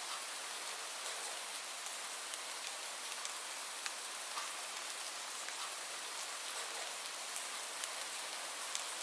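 Steady rainfall, with a hiss of falling rain and scattered individual drops ticking on a surface.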